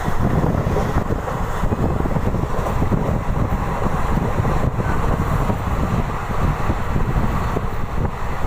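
Deccan Queen express train running along the track, heard from on board: a steady rumble of wheels and coach with no distinct clicks or horn.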